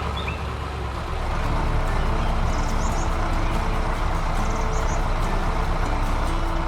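A heavy vehicle engine running steadily, under a simple background tune.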